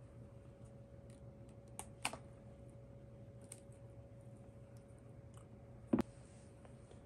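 Scattered light clicks and taps of objects being handled, with one louder knock about six seconds in, over a faint steady hum.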